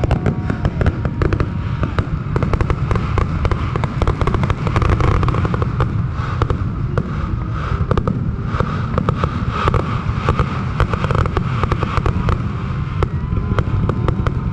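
Aerial fireworks display: shells bursting and crackling, many sharp bangs in quick succession with no pause, over a continuous low rumble.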